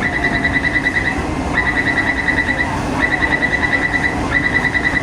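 Taipei Metro door-closing warning: rapid high-pitched beeping in bursts of about a second, four times, over a steady low hum from the station and train, as the C381 train gets ready to depart.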